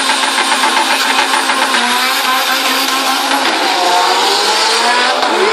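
A drag-racing pickup's engine at full throttle, launching and accelerating hard down the strip; the loud engine note climbs again and again.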